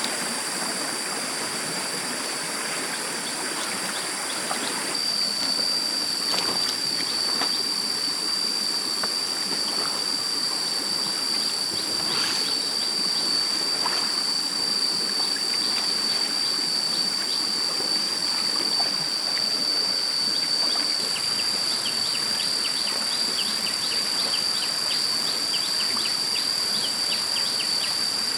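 Stream water running steadily. About five seconds in, a steady high-pitched whine joins it, and near the end rapid short falling chirps, like insects or birds, are heard over the water.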